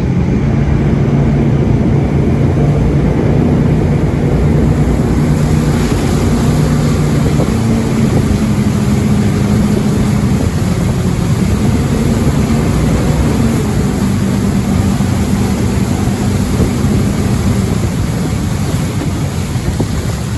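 Jet boat running at speed, its engine holding a steady drone with small shifts in pitch. A rushing noise of water and wind grows from about five seconds in.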